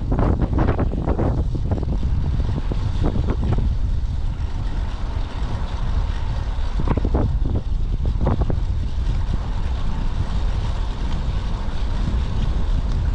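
Strong typhoon wind buffeting the microphone: a heavy, steady rumble with sharper gusts in the first few seconds and again around seven and eight seconds in.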